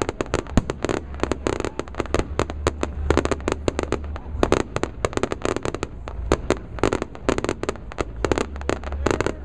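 Fireworks display: a dense, unbroken run of sharp pops and bangs, several a second, from aerial shells and rising comets.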